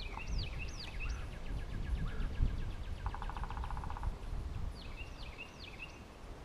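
Wild birds singing: repeated sharp chirping calls near the start and again about five seconds in, with a fast trill between and a short buzzy rattle about three seconds in, over a low rumble of wind on the microphone.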